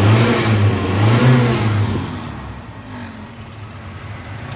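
1958 Sunbeam Rapier's four-cylinder engine, stone cold, blipped twice by hand at the carburettor throttle linkage. Each blip rises and falls, and the engine drops back to idle about two seconds in.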